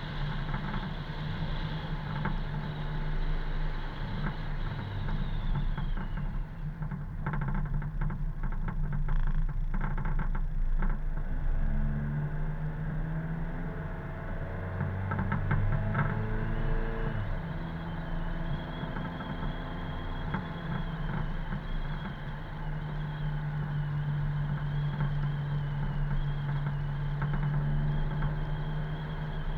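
Car engine running while driving, its pitch shifting up and then back down around the middle as engine speed changes, over steady road noise. A run of short rattles comes about seven to eleven seconds in.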